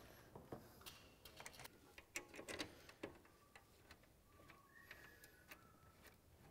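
Near silence with faint scattered clicks and light taps: metal parts of a moped being handled and fitted. A faint thin tone sounds briefly about five seconds in.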